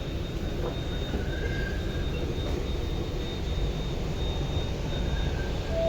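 Steady low rumble of a metro train, with a thin, steady high whine over it.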